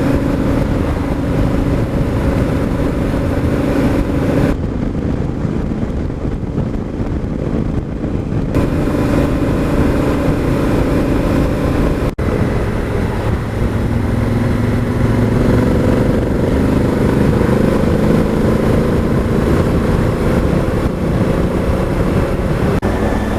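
Motorcycle engine running under way with wind rush, the engine note drifting and then climbing steadily in the second half as the bike accelerates. There is a brief break about halfway through.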